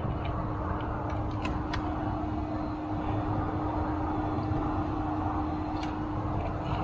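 A steady mechanical hum with a low rumble underneath, and a few faint clicks.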